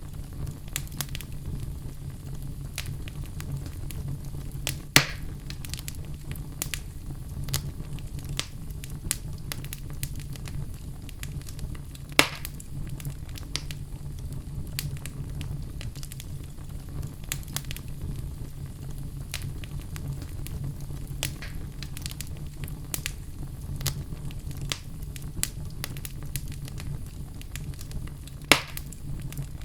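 Wood logs burning in a fireplace: a steady low rumble of the fire under a constant run of small crackles. Three louder pops of burning wood stand out, about five seconds in, about twelve seconds in and near the end.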